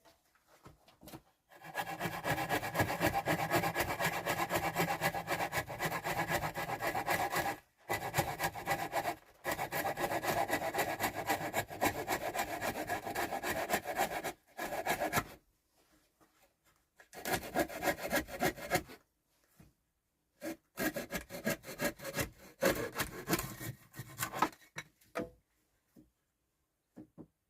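A saw cutting through wood with fast, steady strokes, in several runs broken by short pauses.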